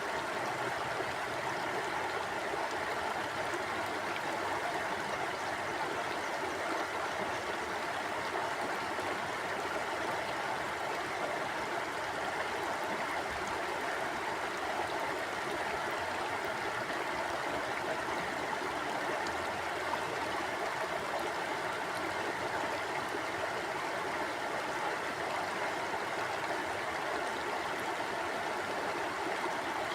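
Mountain stream flowing over rocks: a steady, even rush and gurgle of running water.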